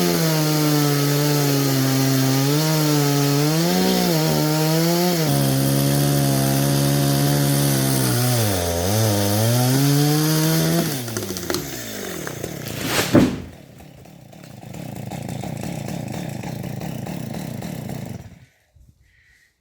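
Stihl MS 250 two-stroke chainsaw cutting into wood at full throttle, its pitch dipping and wavering as it bogs under load. About 11 s in the engine winds down. A single loud crack comes about two seconds later, followed by a steady rushing noise that cuts off abruptly near the end.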